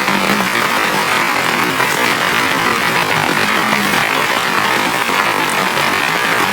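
Heavy rain falling in a loud, steady hiss that does not let up.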